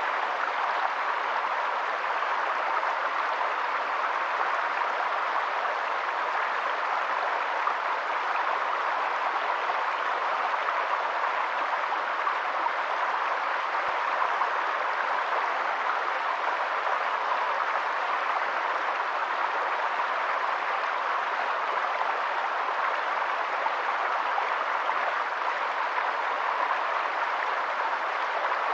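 Steady rushing of running water, such as a stream: an even hiss that neither swells nor fades.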